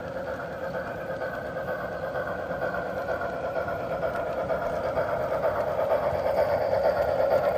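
HO scale model train running along the layout track, a steady mechanical hum that grows gradually louder.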